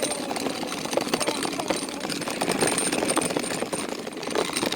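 Wooden go-kart rolling fast over pavement, its wheels and frame making a dense, steady rattle.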